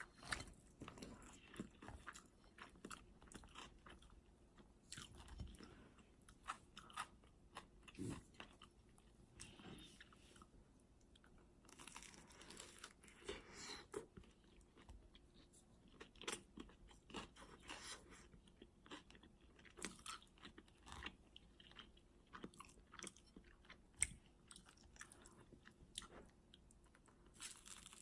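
Someone eating a sandwich: quiet crunching bites and chewing, coming irregularly, with scattered small clicks.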